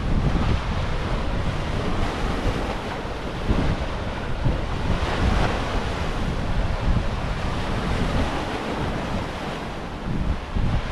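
Ocean surf washing in steadily under strong wind, with wind buffeting the microphone as a low rumble.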